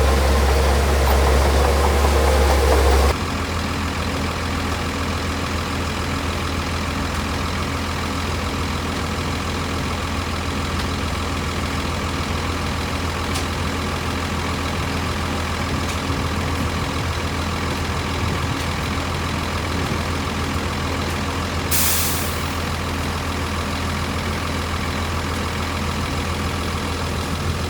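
Heavy diesel engine of a truck or earthmover running steadily, louder and rougher for the first three seconds, then a steady hum. Near the end there is one brief hiss of released air.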